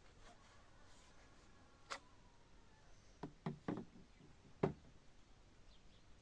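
A handful of short knocks over a quiet background: one about two seconds in, a quick cluster of three or four a little after three seconds, and a sharper, louder one near the five-second mark.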